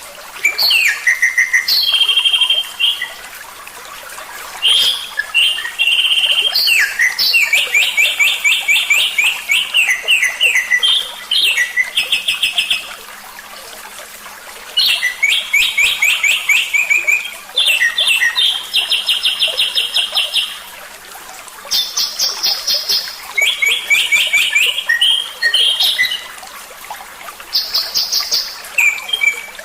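A songbird singing in phrases of rapid repeated chattering notes and trills, each phrase lasting one to several seconds with short pauses between them. This is a recorded masteran song, played to tutor caged songbirds.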